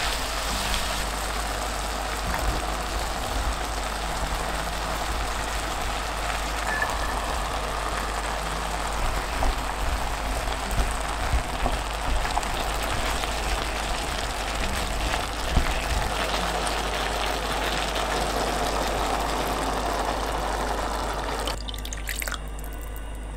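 Diced pork and vegetables sizzling as they are stir-fried in oil in a pot, with a few light knocks of the spatula. Near the end the sizzle gives way suddenly to water being poured into the pot.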